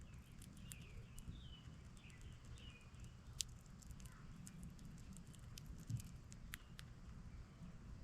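Faint outdoor bird sounds. There are a few short chirps in the first three seconds, and scattered sharp ticks throughout, like beaks and seed at a bird feeder.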